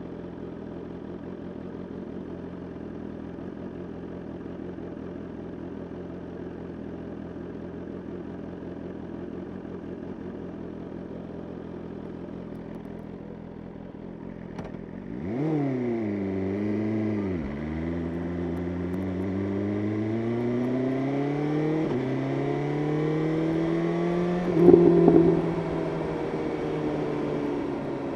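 BMW S1000RR inline-four engine running steadily at low revs, then opening up about halfway through: revs climb, dip briefly at a gear change, and keep rising through the next gear before easing off and falling near the end. A short loud burst comes about three seconds before the end.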